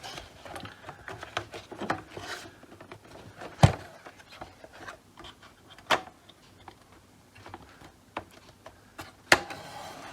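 Light handling noise with three sharp clicks, the loudest a little under four seconds in, as the circuit board of a Jaguar XK8 instrument cluster is popped back onto its front cover.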